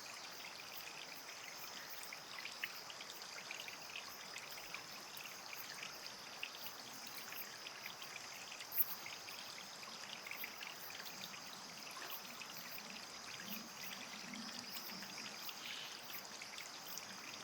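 Faint, steady trickle of running water, with a thin, steady high hiss above it and scattered small ticks, one sharper tick about halfway through.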